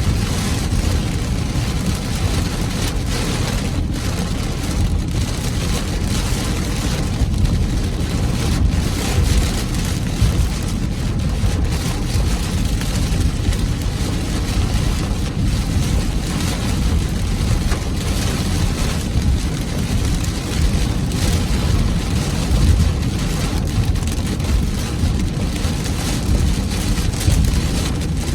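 Torrential rain pelting a car's roof and windshield, heard from inside the car as a steady hiss over a low rumble.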